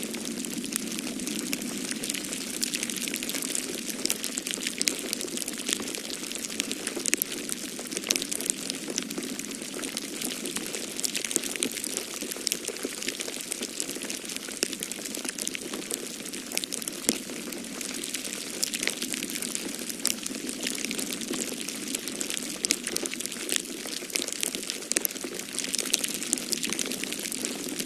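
Wood fire crackling in a fireplace: dense small pops and snaps, scattered irregularly, over a steady rushing of storm wind.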